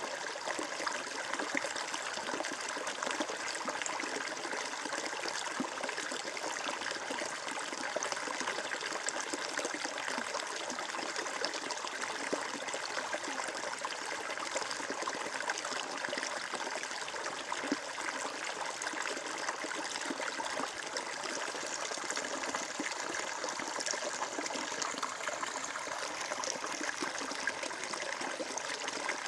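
Water flowing and trickling steadily, an even splashing hiss with fine bubbling detail throughout.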